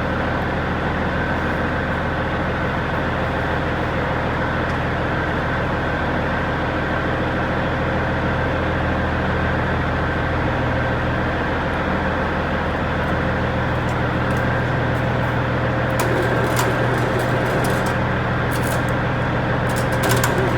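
John Deere 4430 tractor's six-cylinder diesel engine running steadily after a cold start. About three-quarters of the way through its note shifts slightly higher, and light scattered clicks come in near the end.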